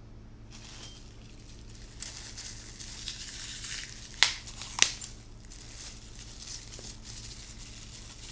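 Food packaging crinkling as it is handled, with two sharp clicks a little over half a second apart about four seconds in.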